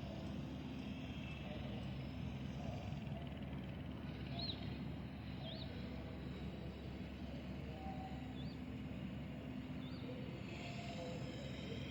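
Excavator's diesel engine running steadily, with a few short bird chirps.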